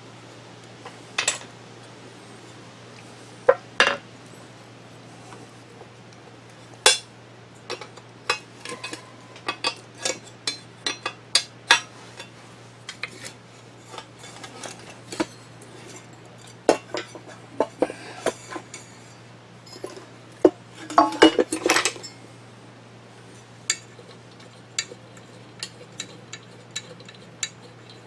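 Small metal parts, nuts and bolts, clinking and clattering as they are handled and set down during disassembly of a drill grinder motor. The clinks come irregularly, with a quick flurry about three-quarters of the way through, over a steady low hum.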